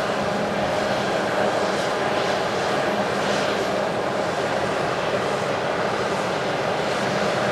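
Heavy harvest machinery running steadily: a constant engine drone with a steady hum and no let-up.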